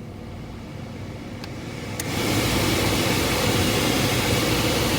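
A click, then the 2005 Ford Explorer's HVAC blower fan comes on about two seconds in and runs with a steady rush of air over a low hum. The fan works but barely any air reaches the dash vents, because a vent actuator's linkage has broken off and is not hooked up to anything.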